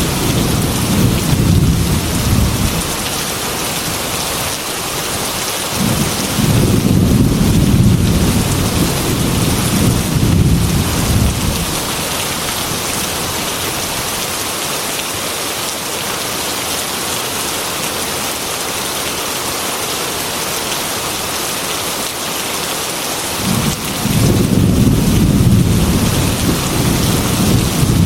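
Heavy rain falling steadily on a metal roof, with low rolls of thunder rumbling at the start, again for several seconds in the first half, and once more in the last few seconds.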